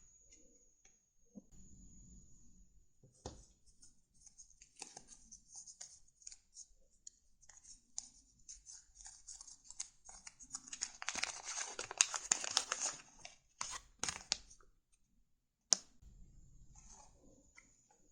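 Crisp paper being handled: rustling and crinkling broken by sharp clicks. It is densest and loudest for a couple of seconds about eleven seconds in, with single sharp snaps around fourteen and sixteen seconds.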